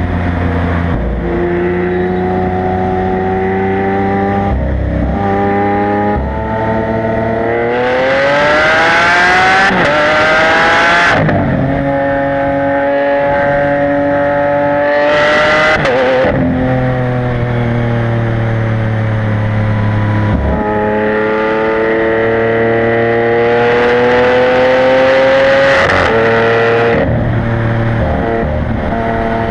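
Lamborghini Aventador LP700-4's V12 with a factory racing exhaust, accelerating hard through the gears. The pitch climbs and then drops sharply at each gear change, several times over.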